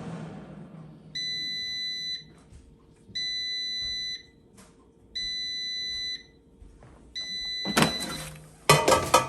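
Power XL Vortex air fryer sounding its end-of-cycle alert: four one-second beeps about two seconds apart, the cooking is done, while the fan's hum dies away in the first second. Near the end, a loud clatter, louder than the beeps.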